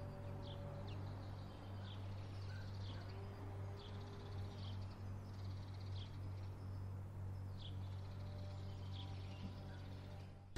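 A bird chirping, short high calls about once a second, over a steady low hum.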